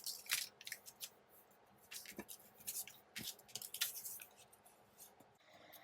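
Paper strips being handled and glued by hand: short scratchy rustles and light taps in several small clusters.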